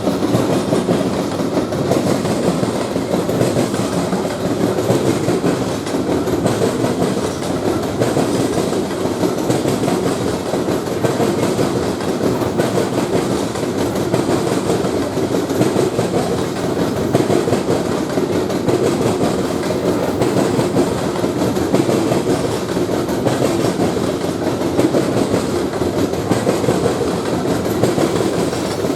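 Train cars rolling past on the rails: a steady, loud rumble with wheel clatter that does not let up.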